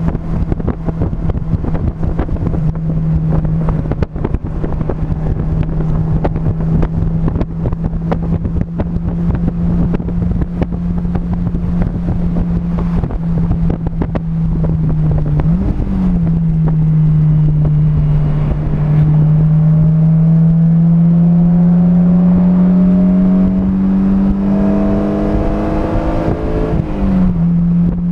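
A vehicle's engine heard onboard at speed on a race track, over wind buffeting the microphone. The engine holds a steady note, changes sharply with a gear change about sixteen seconds in, then rises slowly under acceleration for about ten seconds before another quick change near the end.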